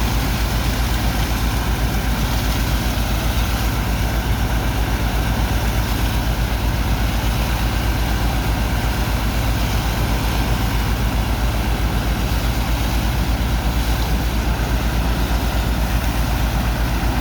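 Heavy engine of a sand dredger running steadily, with a fast, even low throb.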